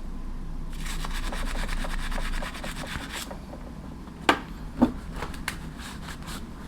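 A toothbrush scrubbing a gun part in quick back-and-forth strokes, standing in for a gun-cleaning wire brush. Two sharp knocks come about half a second apart partway through, followed by lighter scrubbing.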